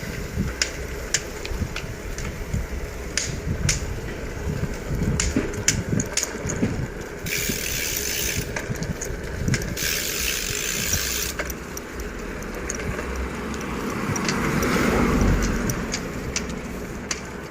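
Riding a bicycle: steady road and wind rumble with many sharp rattling clicks from the bike, and two short bursts of hiss about seven and ten seconds in. Near the end a vehicle passes, swelling and fading.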